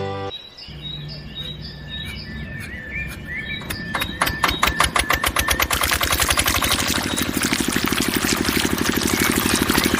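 Small engine of a miniature DIY tractor starting up: spaced knocks about four seconds in quicken into a fast, steady putter that grows louder. Birds chirp before it starts.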